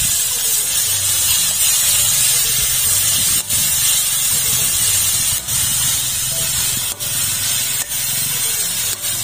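Split-gill mushrooms frying in hot oil in a metal wok: a loud, steady sizzle.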